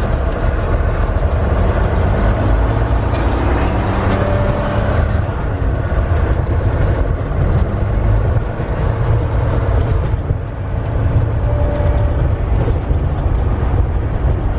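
2019 Volvo VNL 760 semi-truck on the move: its Volvo D13 diesel engine and road noise make a steady low drone.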